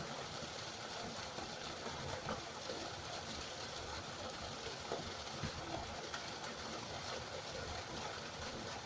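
River water flowing steadily, an even rushing with small irregular splashes.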